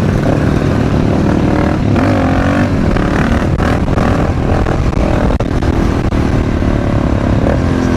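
Supermoto motorcycle engine running under way, revving up and down through the gears, with wind rushing over the helmet-camera microphone.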